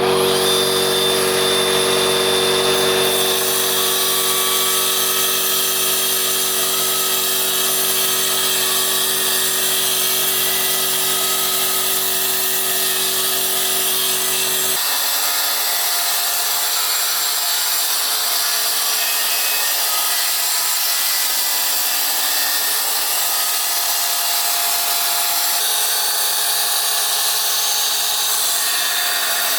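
Electric power tool grinding or cutting into stone, running loud and continuous from a sudden start. About halfway through its low hum drops away and the grinding changes character, with another shift near the end.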